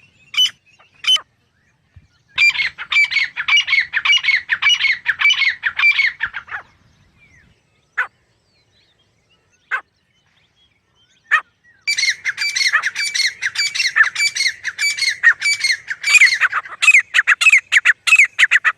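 Grey francolin calling: a few short calls, then a fast run of repeated sharp calls lasting about four seconds. After a pause broken by three single notes, a long rapid series of calls runs through the second half.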